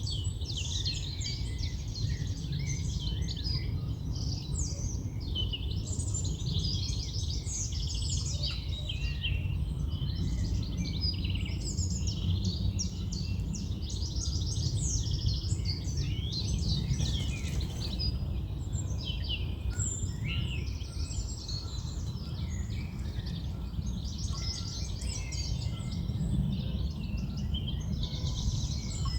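Several songbirds singing at once in a dense, continuous chorus of quick chirps and trills, over a steady low rumble of wind.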